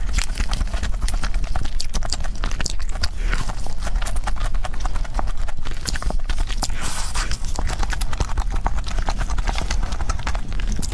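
Close-miked fast eating: rapid wet mouth clicks and smacks of chewing, many a second, without a break.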